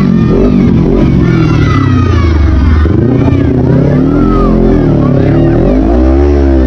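Kawasaki Z400 parallel-twin motorcycle engine with a Toni Orion slip-on muffler, revving: its pitch dips and climbs several times, then swells in one rev and falls again near the end.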